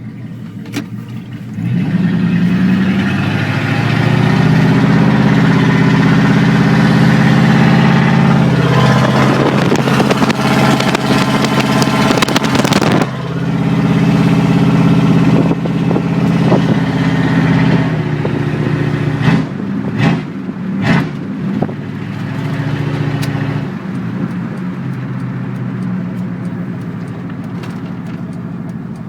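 Straight-piped 5.2 L (318) V8 of a 2001 Dodge Ram, with no catalytic converters or mufflers, pulling hard under acceleration as heard from inside the cab. It is loud and rough: it climbs in pitch and holds, eases off and pulls again, gives a few short sharp blips, then settles to a steadier, quieter cruise.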